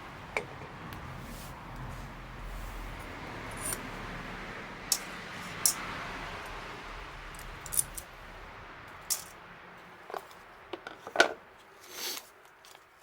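Scattered sharp clicks and clinks, a dozen or so, over a steady rushing noise that fades toward the end; the loudest click comes about eleven seconds in.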